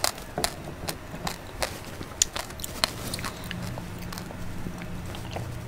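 Close-miked eating sounds: a quick run of sharp, wet mouth clicks and smacks from chewing for about three seconds. Then quieter sounds as a drink is sipped from a glass.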